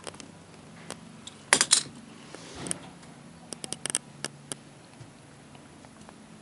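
Scattered sharp clicks and light clinks in two clusters, about a second and a half in and again around four seconds in, with a brief soft rustle between.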